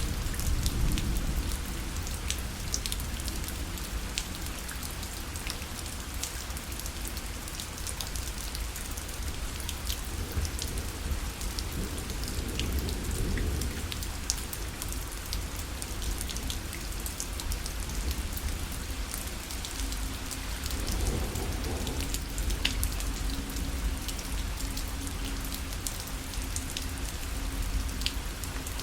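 Rain falling against a parasol: a steady patter of many separate drops over a dense hiss of rain, with a low rumble underneath.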